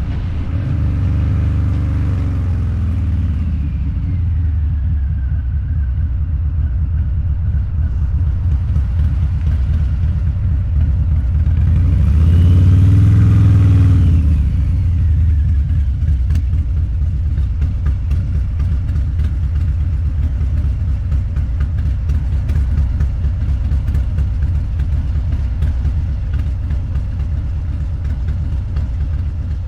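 Harley-Davidson Low Rider's 129 cubic inch V-twin, heard through a Two Brothers Racing exhaust while riding. The engine note falls over the first few seconds, rises to a loud brief throttle-up about halfway through, drops off again, and then runs steadily.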